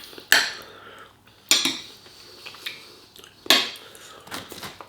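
Cutlery clinking and scraping against a dish while eating, with three sharp strikes: about a third of a second in, at one and a half seconds, and at three and a half seconds.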